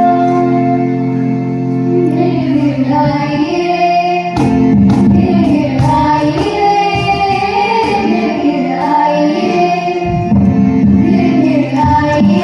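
Schoolgirls singing a Kajari folk song over a steady held-note accompaniment. Percussion beats join about four seconds in.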